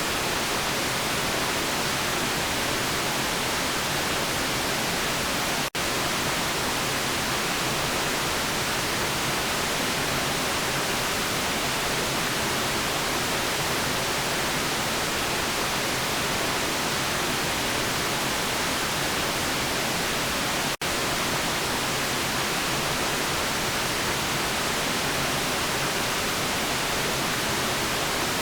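Steady hiss of electronic white noise from a sleep-sound track. It is broken twice by a split-second dropout, once about six seconds in and once about twenty-one seconds in.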